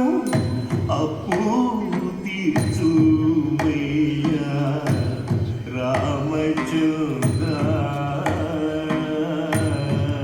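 Telugu devotional song in Carnatic style: a singer with ornamented, gliding phrases over steady hand-drum strokes.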